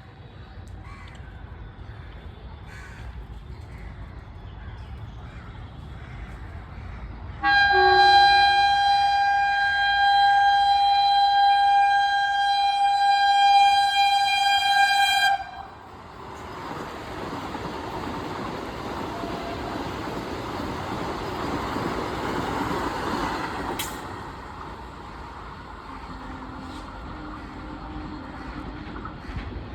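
Vande Bharat Express train approaching with a low rumble, then sounding one long, steady horn blast of about eight seconds that cuts off sharply. A loud rushing roar of the train passing at speed follows, building and then easing off.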